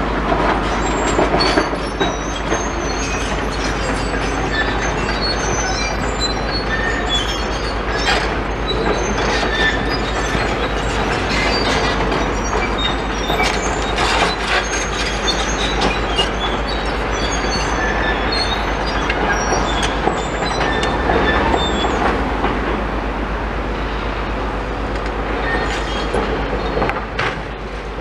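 Demolition excavators working rubble, with their diesel engines running under a steady din of concrete crunching and scraping. Short high squeals of steel and rebar and scattered knocks and clatters cut through it.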